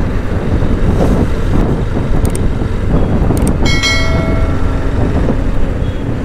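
Wind buffeting the microphone of a camera on a moving motorcycle, over steady engine and road rumble. A vehicle horn sounds once, for about half a second, around four seconds in.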